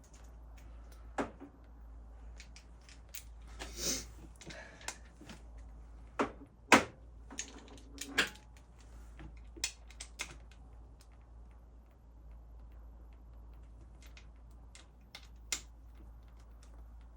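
Scattered clicks and knocks of parts and tools being handled, with a brief scrape about four seconds in and the sharpest knock about seven seconds in, over a faint steady low hum.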